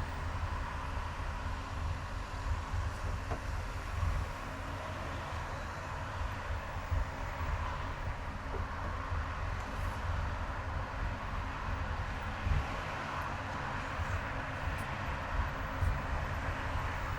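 Car driving along a highway: a steady low road and engine rumble with tyre noise, and no sudden events.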